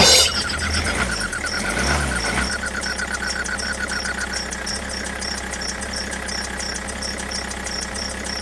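Tractor engine running with a steady, rhythmic knocking chug. It comes in loudly at the start, swells over the first couple of seconds, then settles into an even run.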